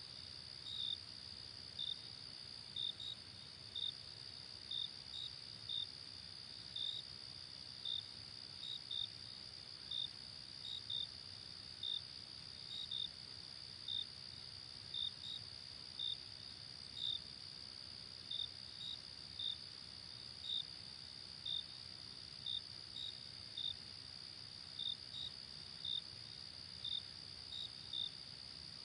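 Night insect chorus: a steady high trill with crickets giving short chirps, often in pairs, about once a second, over a faint low rumble.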